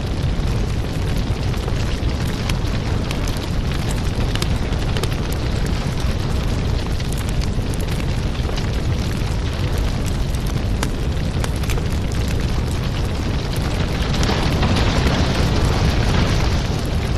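Firewood burning with a steady rumbling roar and frequent sharp crackles and pops. A brighter hiss swells up near the end.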